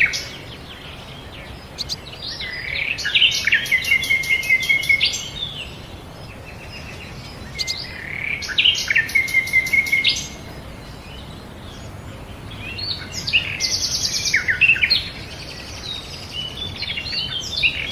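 Olive-backed sunbird (kolibri ninja) singing in repeated bursts of high twittering phrases with rapid trills, each burst two to three seconds long, with short pauses between.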